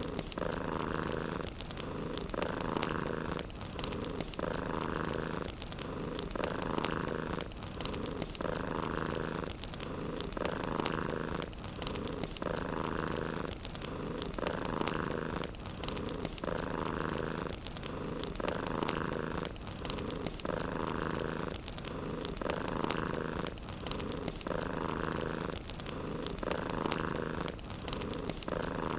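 Domestic cat purring steadily, swelling and pausing with each breath about once every two seconds, over the faint crackle of a wood fire.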